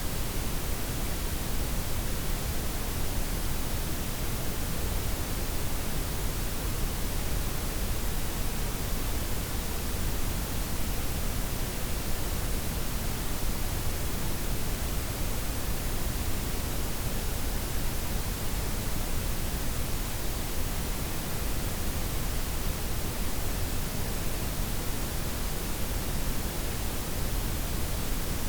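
Synthetic blended white, pink and brown noise: a steady, even hiss with a strong low rumble, unchanging throughout.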